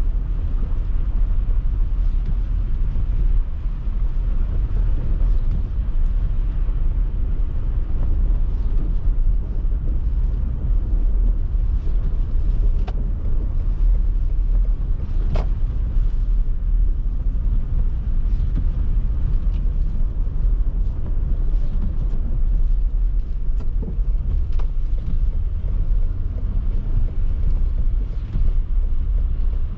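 Car driving on a snowy city road: a steady low rumble of engine, tyres and wind, with a few brief ticks about halfway through.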